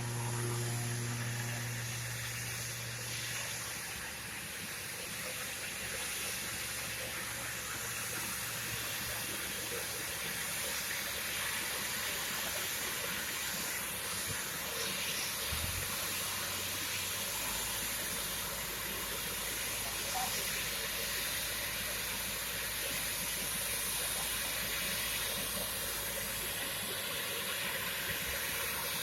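Aircraft on its landing, a steady rushing hiss of engine and air noise with a high whine, and a low hum coming in about halfway through.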